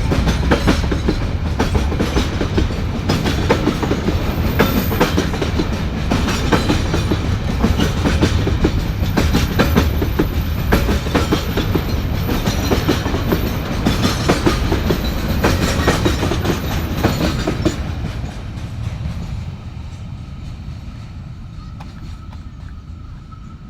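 A train's wagons rolling past at close range, wheels clacking over the rail joints in a dense, continuous stream over a low rumble; the sound dies away over the last few seconds as the train moves off.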